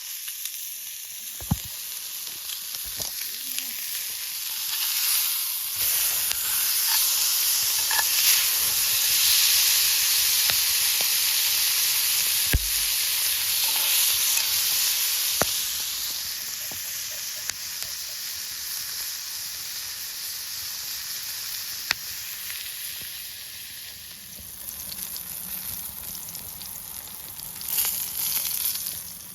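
Beef steak and vegetables sizzling as they cook over a campfire, with scattered sharp pops. The sizzle swells about five seconds in and eases off after about sixteen seconds.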